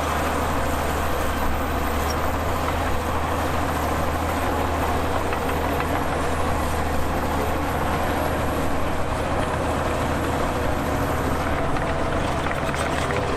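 Heavy diesel earthmoving machinery running steadily under load, a continuous deep engine drone with no clear breaks or impacts.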